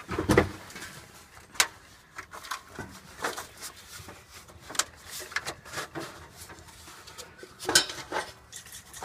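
Scattered clicks, knocks and light rattles of parts being handled on the mower's engine, with the engine stopped, as a cover is taken off, likely the air cleaner.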